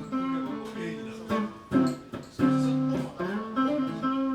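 Guitar playing a blues phrase in the A minor pentatonic scale: a run of plucked single notes stepping up and down, with a few stronger chord-like strikes partway through.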